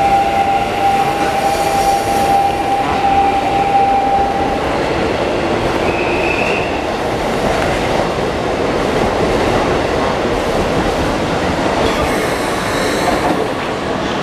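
Keikyu New 1000 series eight-car electric train departing and passing close by, with steady running noise of wheels on rail. A steady whine lasts the first four seconds or so, and a brief high squeal comes about six seconds in.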